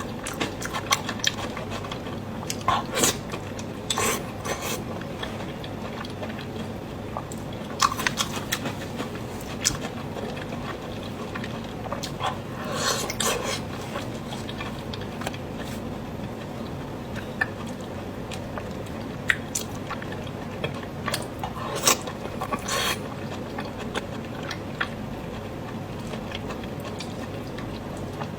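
Close-miked eating sounds: chewing with scattered sharp clicks and short smacks over a steady background hiss.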